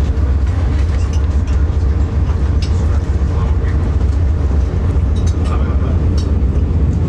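Steady low rumble of a passenger train in motion, with scattered light clicks and rattles.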